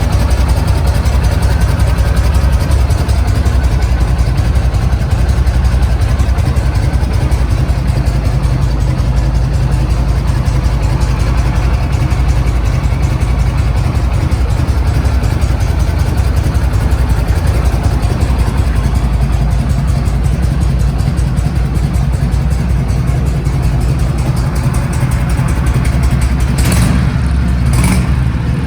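1976 Harley-Davidson FLH1200's Shovelhead V-twin engine running at a steady speed, with a few short sharp noises near the end.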